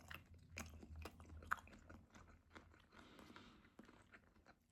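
Faint, irregular crunching of a person chewing a mouthful of vegetarian crunch sushi roll, with one sharper crunch about one and a half seconds in.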